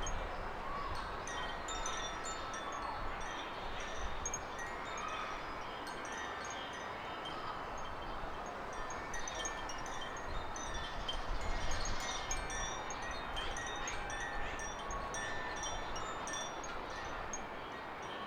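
Small garden birds chirping and twittering in many short, high notes, with a few held ringing tones among them, over wind rumbling on the microphone.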